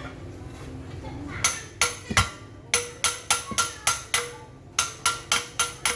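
Hammer blows on metal, about fifteen sharp strikes, each ringing briefly, at roughly three a second, starting about a second and a half in.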